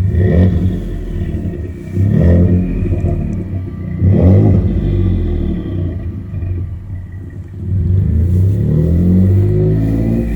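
2018 Ford F-150's 2.7 L twin-turbo EcoBoost V6 through an MBRP 2.5-inch dual exhaust with a straight-through muffler and no resonator. The engine is blipped three times in quick succession, about two seconds apart. It then rises in speed again for a few seconds near the end.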